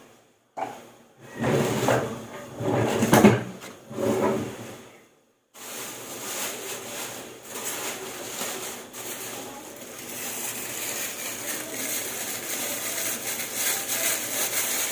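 Kitchen handling sounds: knocks and clatter for a few seconds. Then a steady crackling hiss from a pot of seasoned water on the stove, full of small ticks and growing slowly louder.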